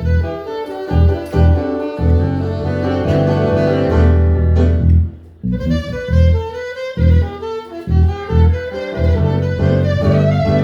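Live band jamming: a sustained, gliding melodic lead line over repeated low bass notes.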